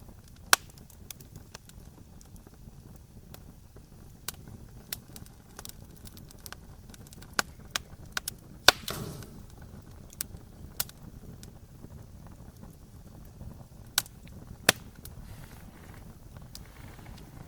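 Campfire burning with irregular crackles and sharp pops from the wood, over a low steady rumble of the flames. The loudest pop comes about nine seconds in and is followed by a short hiss.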